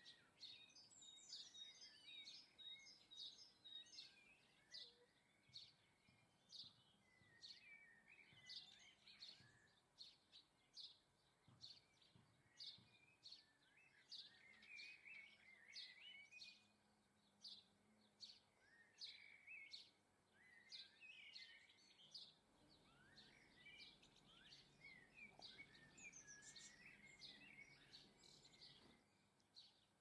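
Faint garden birds calling: a steady run of short, high chirps repeated about every half second, mixed with twittering phrases.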